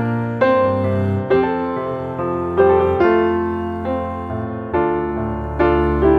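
Background piano music: slow, gentle chords and notes, a new note struck about every second.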